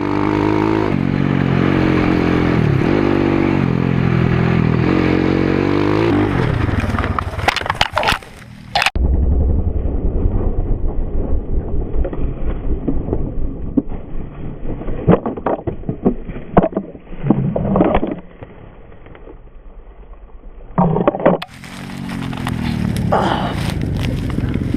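Motorbike engine running with its pitch rising and falling, then a run of sharp knocks and crashing impacts as the bike crashes into a tree. After that comes a muffled stretch of wind rumble with more knocks. The engine note returns near the end.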